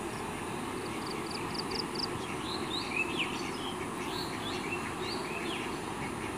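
Birds chirping: a quick run of high notes in the first two seconds, then several short sliding calls, over a steady low background rumble.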